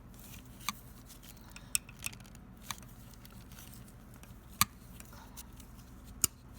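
Sharp, irregular ticks, about six of them, from a seized, broken exhaust manifold bolt in a 5.3 Vortec cylinder head as a wrench rocks it a few degrees at a time. The tick-ticks mean the bolt is moving in its threads, either starting to come out or about to snap.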